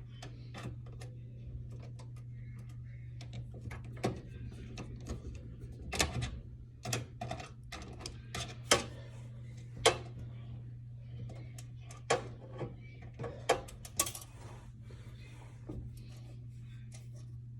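Irregular sharp clicks and taps of a screwdriver and screws against a desktop computer's metal case while it is being unscrewed, over a steady low hum.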